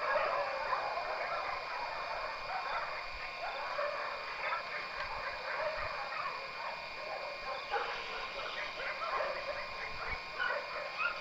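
Dogs barking and yipping on and off without pause, over a few faint steady tones.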